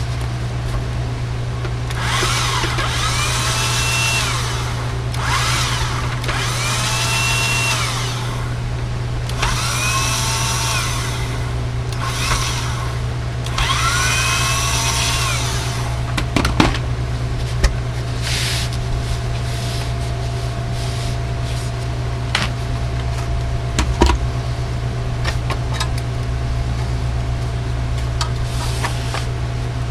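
Electric screwdriver whining in four short runs, each rising in pitch, holding and winding down, as screws are backed out to take a CB radio apart. Then come a few sharp clicks and knocks of handling, over a steady low hum.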